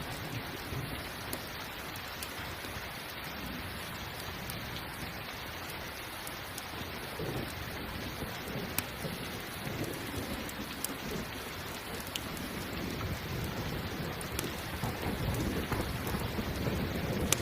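Steady rain, with low rolling thunder that swells in the second half. A few sharp crackles from a campfire come through.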